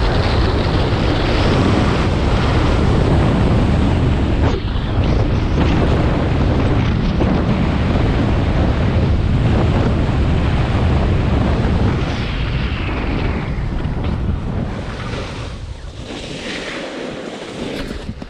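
Wind buffeting the microphone of a camera carried down a ski slope at speed. It is loud and steady, then dies down over the last several seconds.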